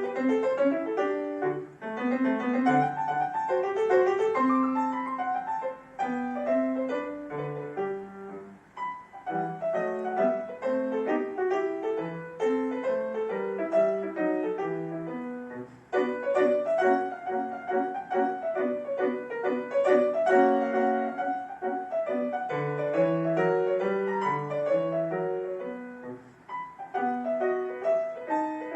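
Solo piano playing a classical piece: a steady stream of quick notes, with brief breaks between phrases.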